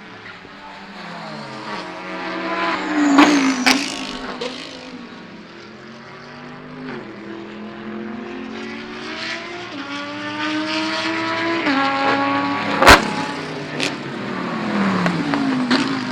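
Turbocharged 2.0-litre four-cylinder engine of a race-prepared VW Golf 7 GTI racing, its pitch rising under acceleration and dropping back at gear changes and braking. Sharp cracks come through, the loudest about 13 seconds in.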